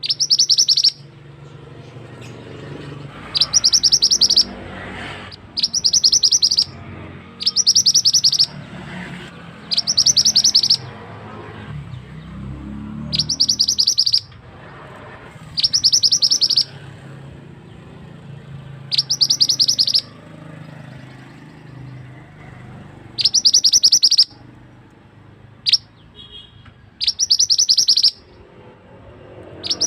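Mantenan bird singing: loud, rapid rattling trills about a second long, repeated roughly every two to three seconds. Between the phrases is a quieter steady background of running water.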